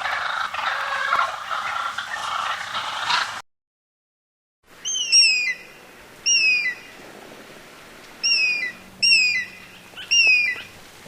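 Dense gabbling calls of a flock of birds, fowl-like, for about three and a half seconds, then cut off. After a short gap a bird gives five sharp chirps, each falling in pitch, spaced a second or two apart.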